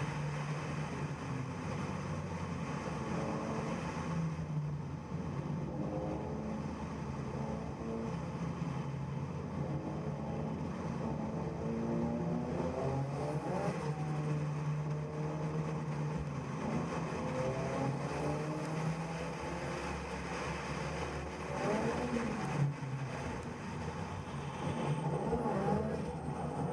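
Drift car engine running at speed, heard from a camera on the bonnet. The revs climb twice: about halfway through and again about two-thirds of the way in. Near the end, tyre noise joins in as the car ahead slides sideways into a corner.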